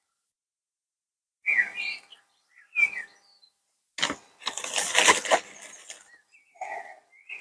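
A few short bird chirps, with a click and then about a second of crackling rustle roughly four seconds in as dry sphagnum moss is pulled apart and pressed into a wire hanging basket by hand.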